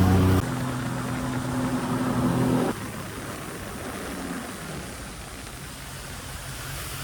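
Sea-Doo jet ski engine easing off the throttle: its drone steps down about half a second in, then falls back to a faint low idle under a hiss about three seconds in as the craft slows.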